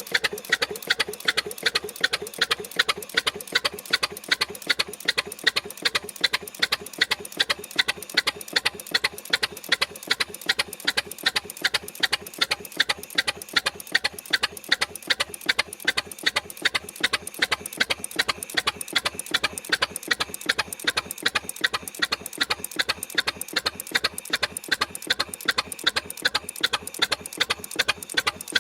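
6hp Frisco Standard two-cylinder stationary engine running steadily, its firing strokes a sharp, even beat of a few a second.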